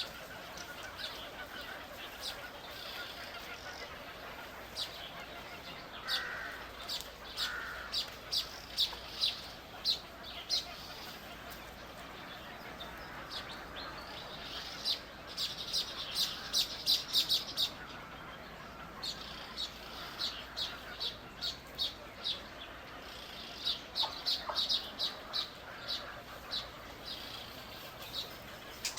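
Small birds chirping: many short, high chirps coming in quick runs, with busier bursts around a quarter, half and three quarters of the way through, over a faint steady background.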